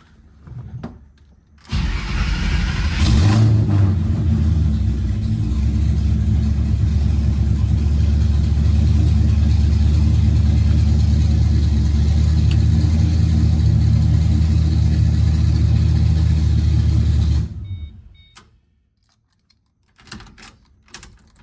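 S197 Ford Mustang drift car's engine starting about two seconds in, flaring up briefly, then idling steadily before shutting off near the end.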